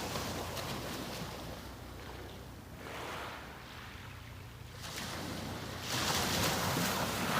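Sea waves washing onto the beach, swelling and ebbing, with the biggest wave breaking about six seconds in. A steady low hum runs underneath.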